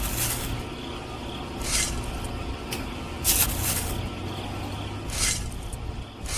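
Short hissing bursts, about one every second and a half, over a low steady hum.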